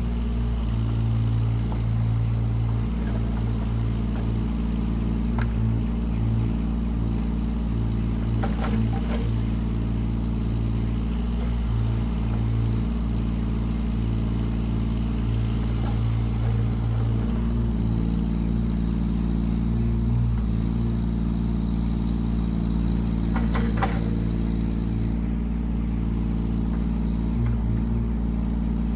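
Yanmar ViO17 mini excavator's diesel engine running steadily, with a brief knock twice, and a faint high whine for several seconds in the second half.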